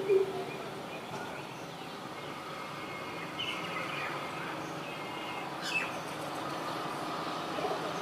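A greater coucal's deep, repeated 'coop-coop' hooting ends about a quarter of a second in. After it, small birds chirp faintly over steady background noise, with one brief falling call near the middle.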